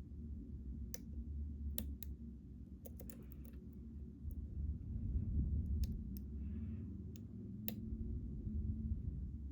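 A lock pick working the pins inside a Ruko 600 pin-tumbler lock cylinder: scattered sharp, small clicks, about nine of them at irregular intervals, over a steady low hum.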